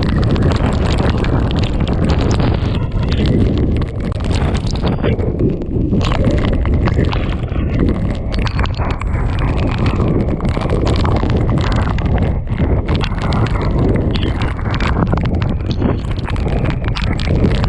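Typhoon eyewall wind gusting hard against the microphone, with torrential rain and spray lashing; loud and uneven, with many short hits.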